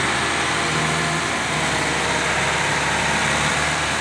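Tractor engine running steadily, a held low note under a dense noisy wash.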